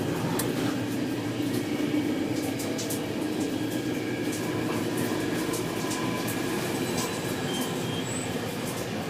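Night train running along the track: a steady rumble of wheels on rail with scattered faint clicks.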